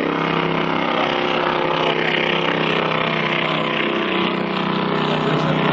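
Boat engine running steadily: an even, unbroken drone with a hiss of water and air over it.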